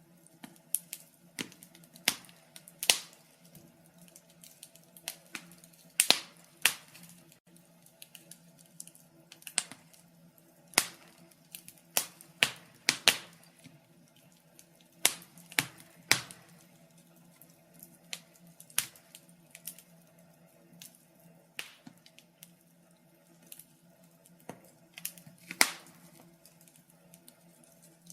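Fire crackling: irregular sharp pops and snaps, one or two a second with some much louder than others, over a faint steady low hum.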